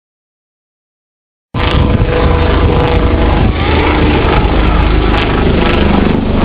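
Dead silence for about a second and a half, then the loud, steady noise of a display aircraft flying past starts abruptly, with a deep rumble underneath.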